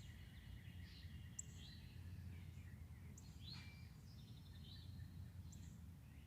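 Faint birdsong: scattered short chirps falling in pitch, from several small birds, over a steady low background rumble.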